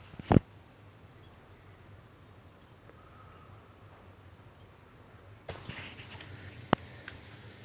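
Quiet outdoor ambience with a few faint high bird chirps. There is a loud thump just after the start and a sharp click near the end.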